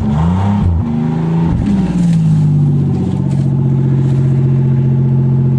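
1990 Oldsmobile Delta 88's 3.8-litre V6 running just after a cold start at −6 °C. It is revved up and down a few times in the first two seconds, then settles to a steady idle.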